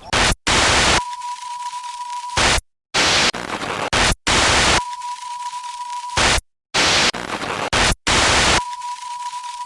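Electronic static sound effect: loud bursts of white-noise hiss that cut in and out abruptly, each followed by quieter hiss with a steady high beep tone under it. The pattern repeats three times.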